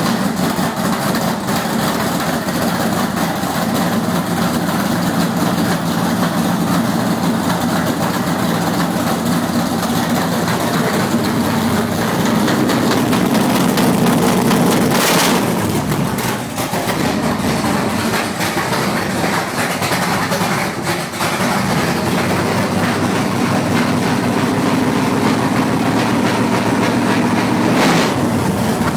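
Blueprint Pro Series 632 cubic-inch big-block Chevrolet V8 running loud and steady at idle just after starting, with a couple of brief sharp sounds about halfway and near the end.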